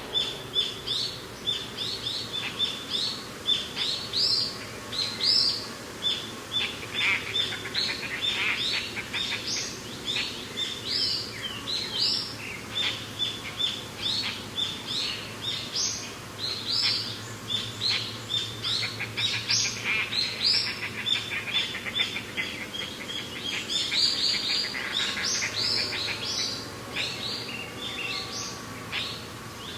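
Several birds chirping continuously, a dense chorus of short high chirps following one another several times a second, thickest at two points, over a faint steady low background.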